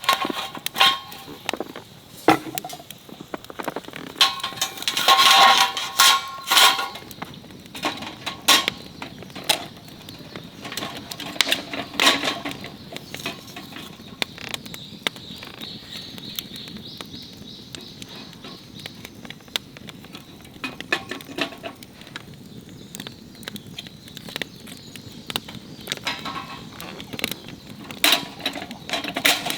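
Metal camp cookware and utensils clinking and knocking, with a burst of ringing clinks about five seconds in, amid many scattered sharp clicks.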